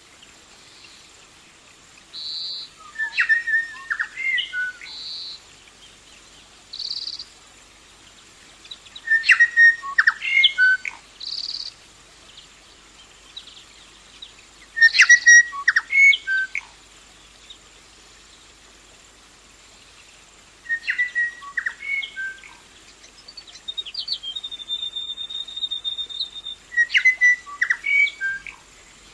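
A songbird singing: five phrases of clear whistled notes and clicks, one every five or six seconds, with single short high notes in between and a rapid high trill about two-thirds of the way through.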